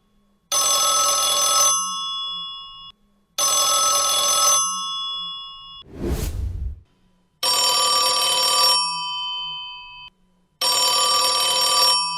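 Old-style telephone bell ringing in two bursts of about a second each, its overtones ringing on after each burst. A whoosh follows, then a different-sounding telephone bell rings in two more bursts.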